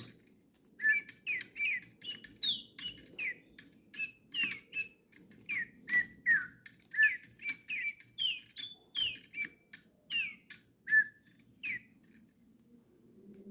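DigiBirds toy lovebird chirping in reply to being spoken to: a run of short electronic tweets that change in pitch, about two a second, stopping shortly before the end.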